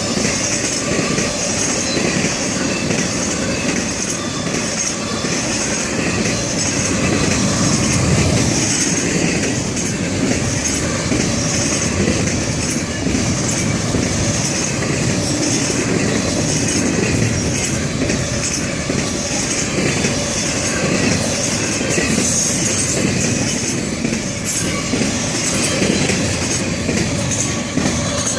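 Florida East Coast Railway freight cars rolling past on the main line: a steady heavy rumble of wheels on rail with clicking and a high wheel squeal. The noise falls away right at the end as the last car and its end-of-train device pass.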